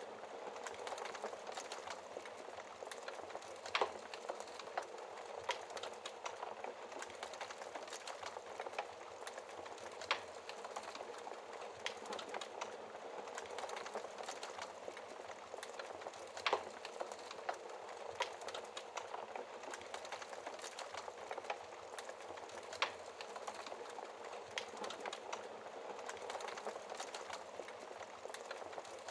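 Wood fire crackling in a fireplace: a steady hiss dense with small crackles, and a few louder pops about six seconds apart.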